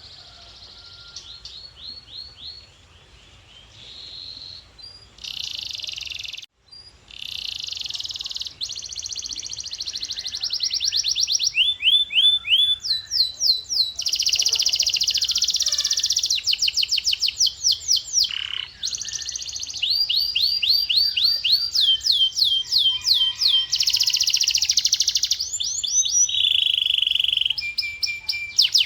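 Domestic canary singing: fast rolling trills of rapidly repeated sweeping notes and buzzy tours, quieter at first and louder after about ten seconds, with a brief break in the first third.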